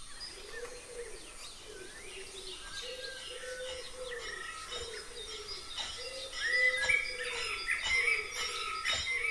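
Birds calling and chirping: short repeated calls, with higher chirps that grow stronger after about six seconds, and a few light clicks among them.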